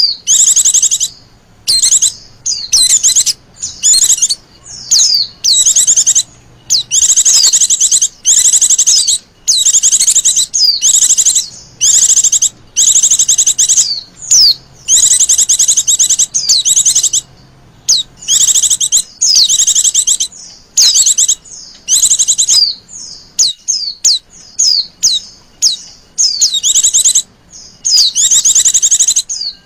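Female white-eye (Zosterops) calling: a steady run of short, high, buzzy trills mixed with quick down-slurred chirps, about one burst a second.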